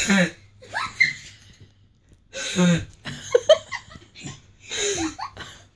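A child's wheezy, seal-like barking noises, made in about five breathy bursts.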